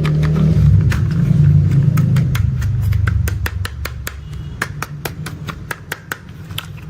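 A low engine-like rumble that fades away after about three and a half seconds, with a stream of sharp irregular clicks and taps throughout that stand out more toward the end.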